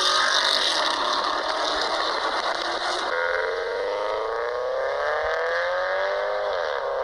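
A car engine and exhaust accelerating under load, the pitch climbing steadily. The sound changes abruptly about three seconds in, and the pitch drops sharply near the end.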